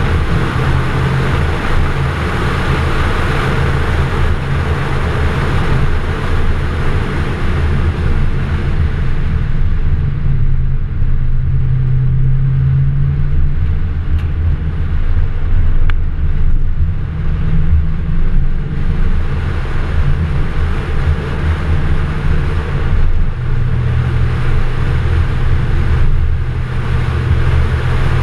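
FPV GS ute's V8 engine running steadily at low revs while driving along a gravel track, with tyre and wind noise over it.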